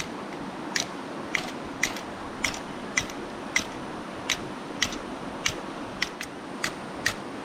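A spark-throwing fire starter being struck over and over, about two short, sharp scraping strikes a second, trying to catch tinder for a campfire.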